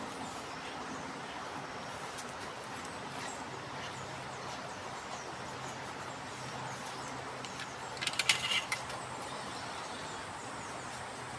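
Steady outdoor background noise with faint bird chirps. About eight seconds in, a brief cluster of sharp clicks and knocks.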